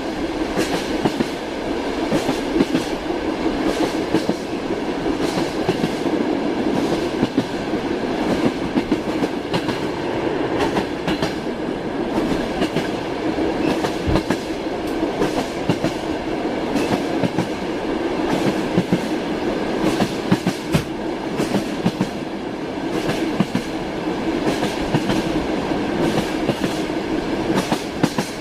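Train wheels clattering over rail joints with a steady rolling rumble, as heard riding in a railway carriage: a continuous run of clicks and knocks over the hum of the moving train.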